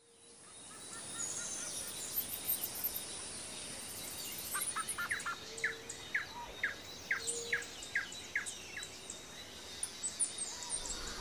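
Birds calling over a steady high hiss, fading in at the start. From about four and a half seconds in, one bird repeats a short chirp many times in quick succession, two to three a second.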